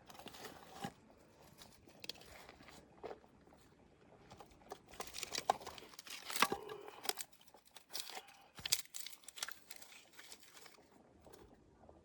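Irregular crinkling and rustling with sharp clicks and light knocks, as of things being handled, busiest around the middle.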